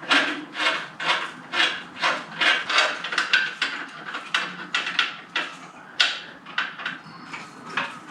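Ratchet wrench being worked in short repeated strokes, roughly two a second, each a brief rasp of clicks, running nuts down onto the motorcycle's exhaust flange studs.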